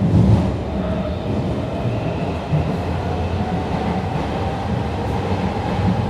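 Subway train running, a heavy low rumble with a faint whine that rises slowly in pitch.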